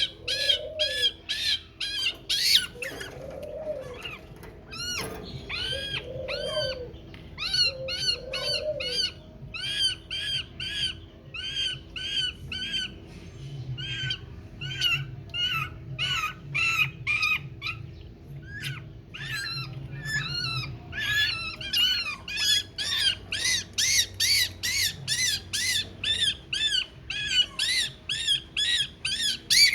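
Young birds' begging chirps: short, high, repeated calls about two to three a second, coming thicker and faster in the last several seconds.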